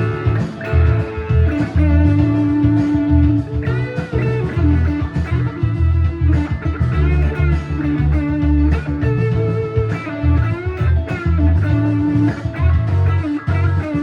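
Gibson Les Paul Standard 50s electric guitar through a Donner Morpher distortion pedal on its classic gain setting, playing a bluesy lead line of sustained, bent notes over a drum and bass backing track.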